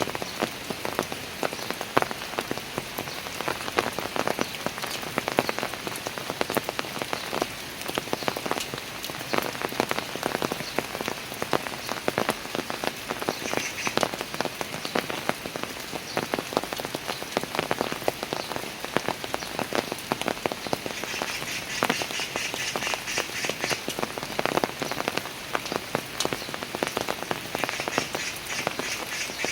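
Steady rain falling on park stairs and the surfaces around them, a dense patter of countless drops. Three times a short bout of a rapid trilling animal call sounds over the rain.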